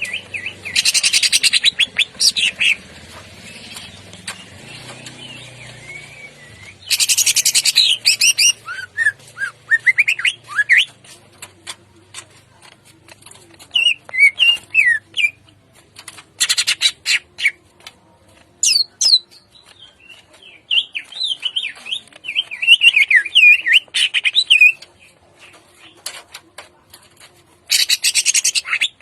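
Cucak ijo (greater green leafbird) singing loudly: quick, varied whistled phrases broken four times by harsh, rattling 'tembakan kasar' bursts.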